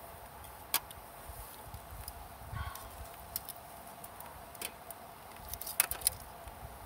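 A handful of short, sharp clicks and light taps of small hard objects, spaced out irregularly, with two quick loud ones near the end.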